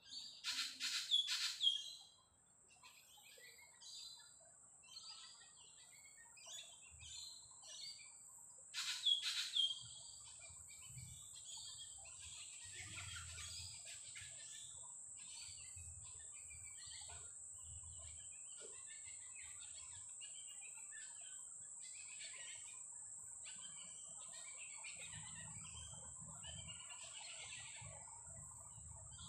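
Wild birds calling and chirping, with two loud bursts of rapid repeated calls, one near the start and one about nine seconds in. A steady high-pitched whine comes in a couple of seconds in and holds.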